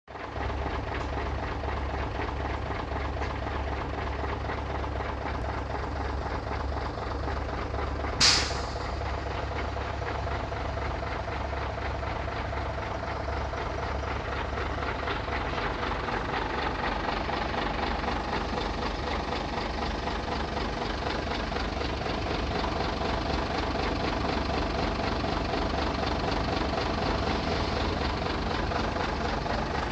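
Large truck engine running steadily with a constant low hum. About eight seconds in there is one short, loud, sharp hiss or crack.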